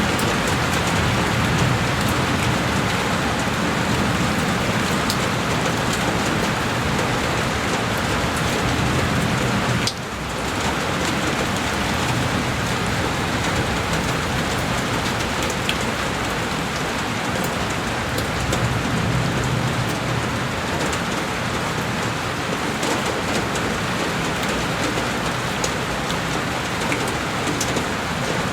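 Heavy rain on a window: a dense, steady wash of rain with scattered sharper drop ticks. The sound dips suddenly for a moment about ten seconds in, then carries on as before.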